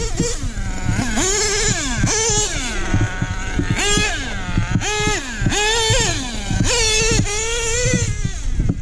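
HPI Savage 25 nitro RC monster truck's small glow-fuel engine revving in repeated throttle bursts about once a second, its high pitch climbing and dropping back each time.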